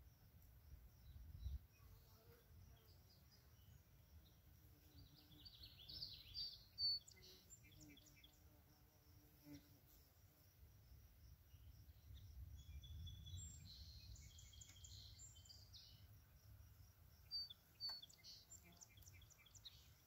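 Faint birdsong in scattered bursts of high chirps and trills, over a low wind rumble on the microphone.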